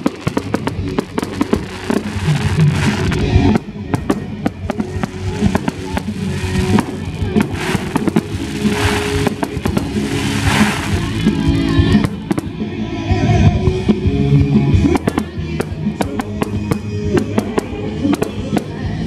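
Fireworks going off in quick succession, with sharp bangs and crackling, over music. The crackling thickens into a dense hiss about halfway through.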